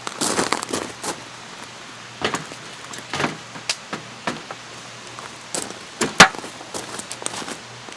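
A run of irregular clicks, taps and knocks, like camping gear being handled and set down, the loudest about six seconds in, over a steady faint hiss.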